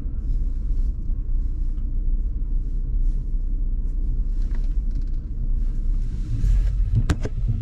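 Low, steady rumble of a car heard from inside the cabin as it drives slowly over packed ice and snow, with a few sharp clicks near the end.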